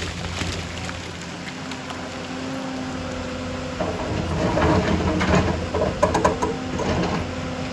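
Excavator engine running steadily, joined about halfway through by louder scraping and clanking as the machine works.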